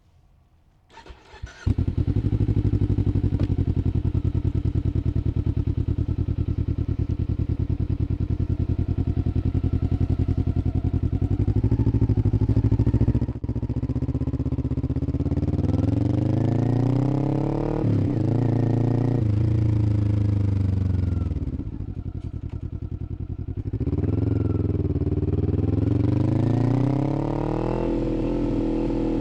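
2021 Kawasaki Z400's parallel-twin engine starting up about two seconds in and running steadily. It then pulls away, the pitch climbing and dropping sharply several times as it accelerates and shifts gears.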